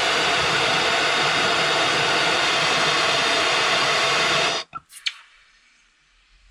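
Gas blowtorch flame hissing steadily while heating copper washers to anneal them soft; it cuts off suddenly about four and a half seconds in, followed by a faint click.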